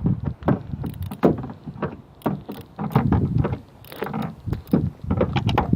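Irregular clicks and knocks of a ratchet, socket and extension working a spark plug loose, over handling rumble.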